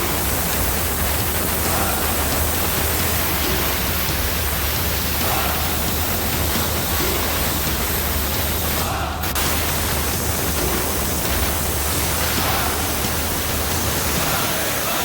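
Steady hiss of a jet of steam from an LV-15 Eco Wash Steam steam washer's lance, over a low hum that stops near the end. The hiss briefly dips about nine seconds in.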